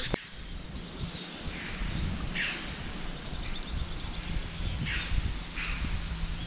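Birds calling in a rock gorge: a few short, sharp calls, about two and a half seconds in and twice more around five seconds, over a steady low rumble, after a brief knock at the very start.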